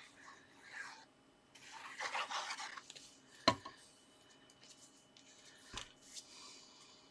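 Card stock being slid and rubbed against paper, a rustling scrape for about a second, then two sharp taps a couple of seconds apart as the card pieces are set down.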